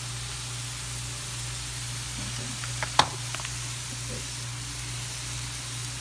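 Turkey burger patties sizzling steadily on an electric griddle. A sharp click about halfway through, with a few lighter taps just before and after it.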